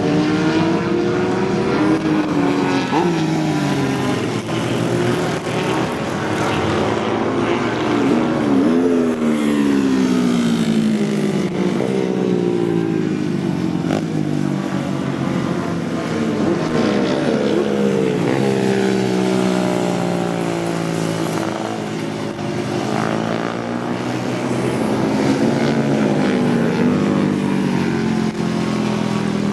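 Several vintage racing motorcycle engines running hard at once on a race track. Their pitches climb and drop again and again as the bikes accelerate, shift gears and pass by.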